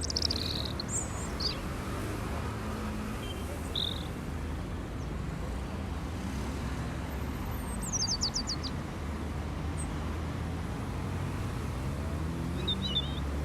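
Birds chirping in short scattered calls, with a quick run of descending high notes about eight seconds in, over a steady low rumble of distant traffic.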